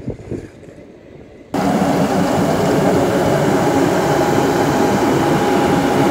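Heavy road-construction machine engine running loud and steady, cutting in abruptly about a second and a half in, with a steady whine over a dense rumble.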